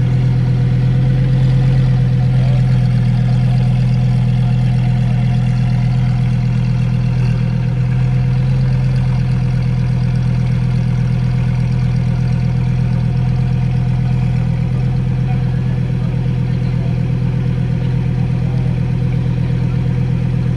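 A car engine idling steadily and loudly close by, its exhaust note holding one even low pitch with no revving.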